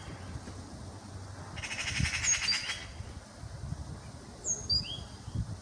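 Eurasian magpie giving its harsh, rapid rattling chatter for about a second, a bit under two seconds in. A smaller bird repeats a short phrase of high, falling chirps twice.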